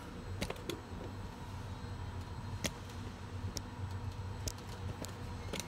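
Scattered light clicks and taps from the wheelchair lift's pump-housing cover and its parts being handled, about seven in all, over a steady low hum.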